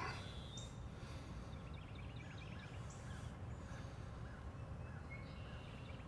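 Faint outdoor ambience with distant birds calling: a run of short, quick repeated chirps through the middle and a few thin, high, falling notes.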